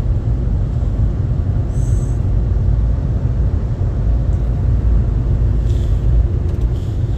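Steady low rumble of the car wash machinery and the car in the bay, with brief faint hisses about two seconds and six seconds in.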